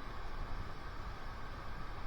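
River water rushing steadily, a continuous even hiss with a low rumble beneath it.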